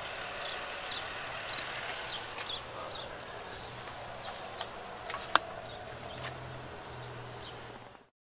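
Outdoor background of small birds chirping over a steady hiss, with one sharp click about five seconds in; the sound cuts off just before the end.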